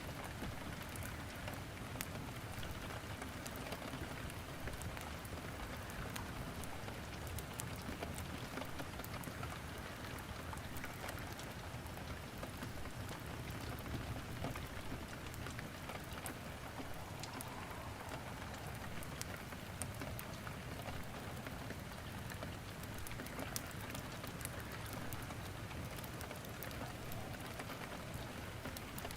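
Steady rain falling, with scattered sharp crackles from wood burning in a fireplace.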